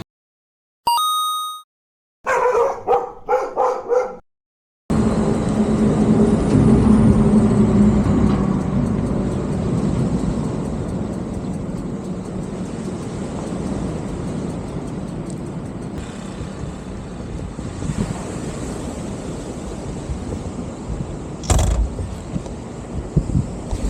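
Motorcycle riding along, with a continuous engine-and-road rumble and wind noise on the microphone. It starts about five seconds in, after a short beep and a few brief pitched sounds. A single knock comes near the end.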